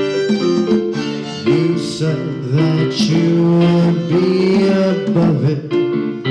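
Live rock band playing an instrumental passage between sung lines: sustained keyboard chords with guitar, and a wash of cymbals in the middle.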